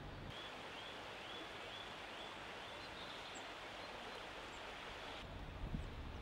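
A steady outdoor background hiss that cuts in and out abruptly, with a faint short chirp repeating about twice a second.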